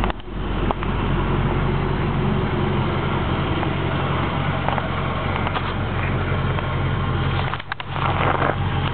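2007 Dodge Charger SRT8's 6.1-litre HEMI V8 idling steadily through a 3-inch Mopar exhaust with aftermarket mufflers. The sound dips briefly twice, once at the start and once near the end.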